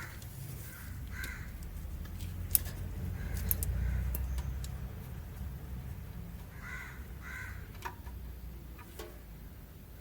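A bird giving short calls in pairs, once near the start and again about seven seconds in, with a few sharp clicks, the loudest about two and a half seconds in, over a low rumble.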